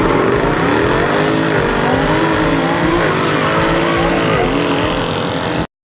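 Mercedes-AMG V8 car accelerating hard, the engine's pitch climbing through the revs and dropping three times as it shifts up through the gears, before the sound cuts off suddenly near the end.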